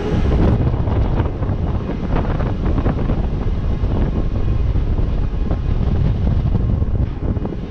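Wind buffeting the microphone: a loud, steady, low rumble that flutters unevenly.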